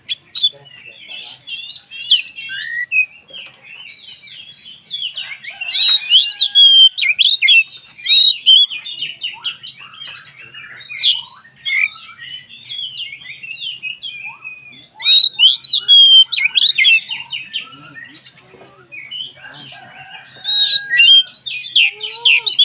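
Oriental magpie-robin (kacer) singing in full voice: a fast, varied run of whistles and chattering notes that comes in loud bursts, three times louder than the rest.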